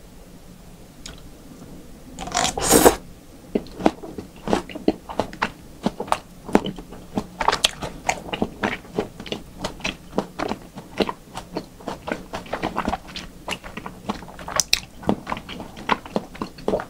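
Close-miked mouth sounds of eating yukhoe, Korean raw beef tartare: a loud wet burst as the bite is taken about two seconds in, then steady chewing with many rapid wet clicks and smacks.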